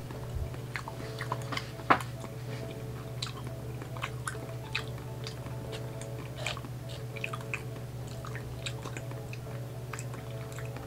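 Close-miked wet chewing of raw sashimi, many soft smacks and squishes, with one sharper click about two seconds in. A steady low hum runs underneath.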